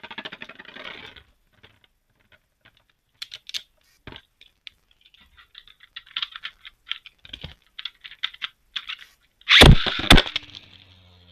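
Plastic Beyblade Burst tops clicking and rattling: a dense rattle at the start, scattered sharp clicks through the middle, then one loud clatter about nine and a half seconds in.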